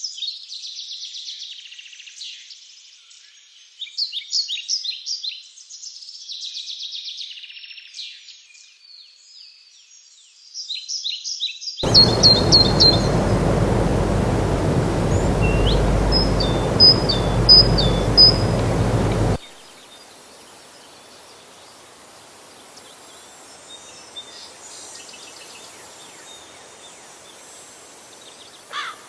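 Small birds singing and chirping in quick trills. About twelve seconds in, a loud, even rushing noise with a deep rumble comes in under a few chirps and cuts off abruptly some seven seconds later, leaving a faint hiss.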